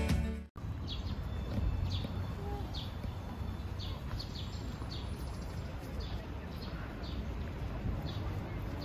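Background music cuts off about half a second in, giving way to outdoor ambience: small birds chirping in short, repeated calls over a low steady rumble.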